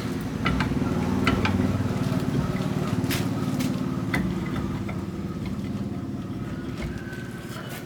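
An engine or motor running steadily, with scattered sharp metallic clicks and knocks over it.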